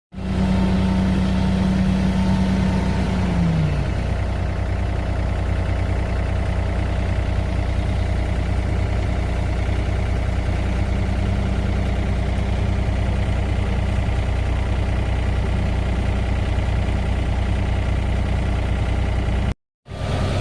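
Heavy machinery engine running steadily with a deep hum; a higher whine drops in pitch and fades about three and a half seconds in. The sound cuts out briefly near the end.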